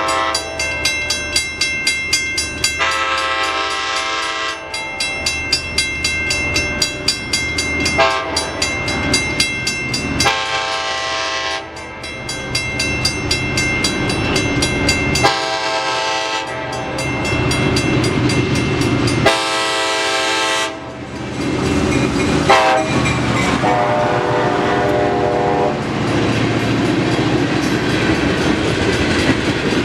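Train horn sounding about eight separate blasts, some short and some held for a second or two, over the rumble of a passing train. Its wheels click rhythmically over the rail joints, most clearly in the first half.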